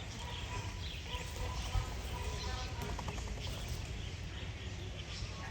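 Scattered faint bird chirps and short calls from several birds, over a steady low rumble.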